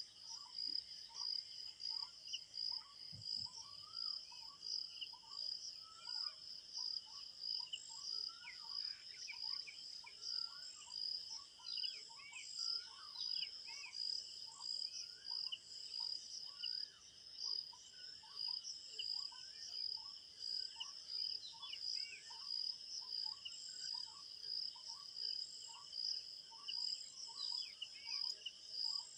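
Crickets chirping in a steady, fast-pulsing high trill, with birds calling over it: a regular run of short rising whistled notes, about one or two a second, and scattered higher chirps.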